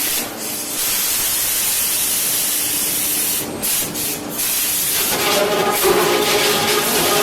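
Wood-working machinery running: a loud hissing rush, and about five seconds in a steady whine at several pitches comes in over it.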